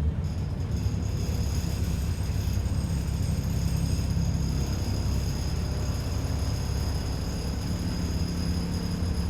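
ADL Enviro 400 double-decker bus running steadily, a low engine rumble heard from inside the bus. A thin, steady high whine sets in just after the start and holds.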